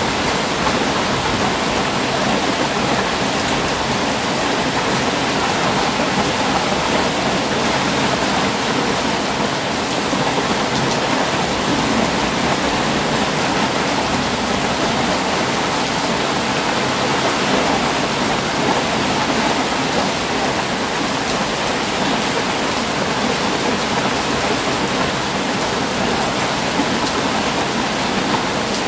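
Heavy rain falling steadily: a dense, even hiss of rain with no thunder.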